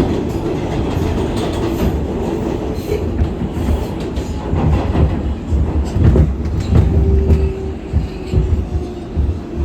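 Inside an R188 subway car of the 7 train while it runs along the track: a steady rumble of wheels on rail, with uneven clacking thumps and a short whine about seven seconds in.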